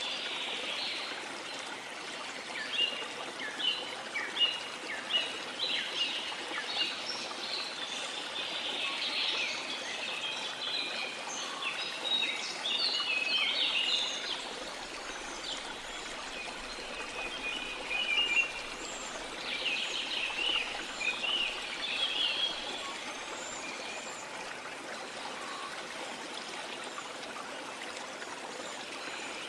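Small songbirds chirping and twittering, busiest in the first half and again about two-thirds of the way through, over a steady wash of sea water.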